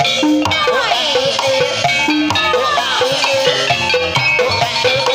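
Javanese gamelan-style ensemble music accompanying a kuda kepang (ebeg) horse dance: drums and ringing metal percussion repeating a steady note, with a sliding melodic line over it.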